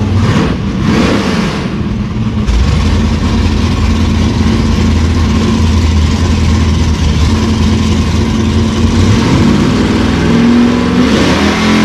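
Two V8-powered drag cars, a Corvette and a Chevy S-10 pickup, running loud and steady at idle on the start line, with a rush of noise in the first two seconds as the burnouts finish. The engine revs rise briefly near the end.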